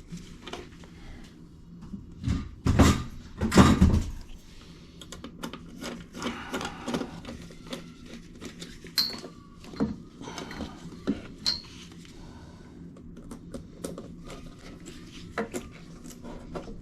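Handling noise: a couple of louder rubbing thumps two to four seconds in, then scattered light knocks and clicks, a few with a short metallic ring.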